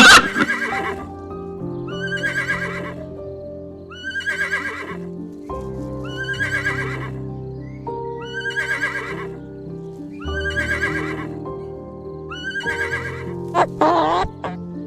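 A short animal call repeated seven times, evenly about every two seconds, over steady background music; near the end a different, wavering call begins.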